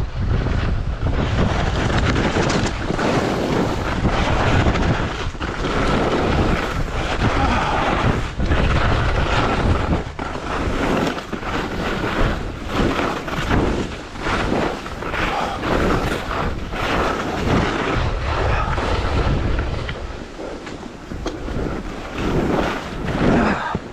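Skis scraping and carving over snow in repeated irregular swells, mixed with wind buffeting the action camera's microphone.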